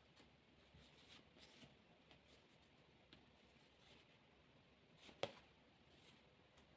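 Near silence: room tone, with one short click about five seconds in and a few fainter ticks.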